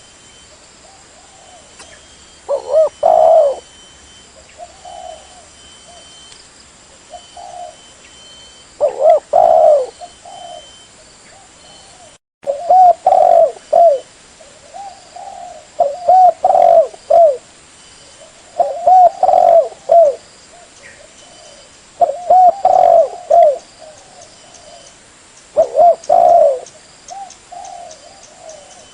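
Spotted dove cooing: loud phrases of a few quick hooting coos recur about every three to four seconds, with softer single coos between them.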